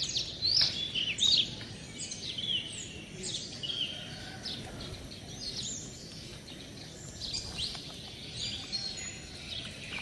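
Birds chirping and calling over and over in short, quick notes, over a steady outdoor background hiss.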